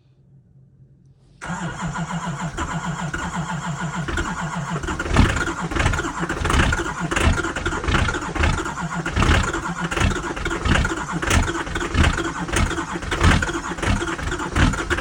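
GM Duramax LB7 6.6-litre V8 turbo-diesel starting cold, without its block heater plugged in. It catches suddenly about a second and a half in and keeps running with a steady, regular pulsing about one and a half times a second.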